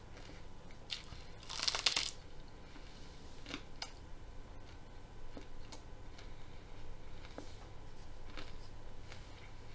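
Person chewing raw broccoli with their mouth open. Scattered crunches and clicks, with one louder crunch lasting about half a second, near two seconds in.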